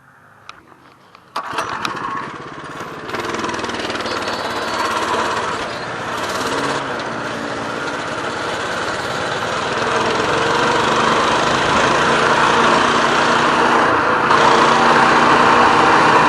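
Minibike's small engine: a few faint clicks, then about a second and a half in it comes in loud under throttle and runs steadily, growing gradually louder as the bike rides at around 20 mph.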